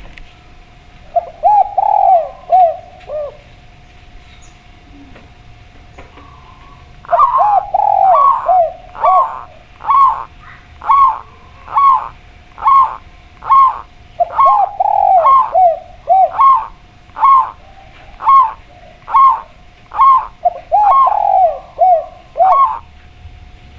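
Zebra dove (perkutut) and spotted dove (tekukur) cooing. A short burst of warbled coos comes first, then a long run of evenly repeated coo notes, about three every two seconds, with lower rolling coos joining in three times.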